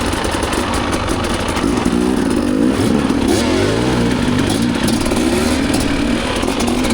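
Dirt bike engine revving, its pitch rising and falling several times as the throttle is worked.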